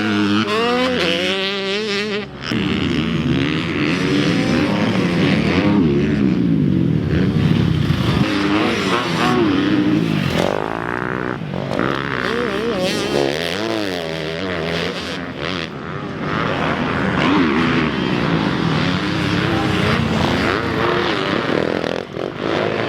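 Motocross dirt bike engines revving up and down again and again as bikes ride past on the track, their pitch rising and falling in sweeps, with a short drop in level about two seconds in.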